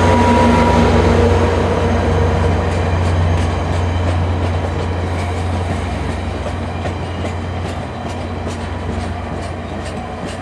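VIA Rail passenger train led by F40PH-2 diesel locomotive 6437 going by: the locomotive's low engine drone fades over the first few seconds. The passenger cars' wheels then click over rail joints about three times a second as the overall sound slowly falls away.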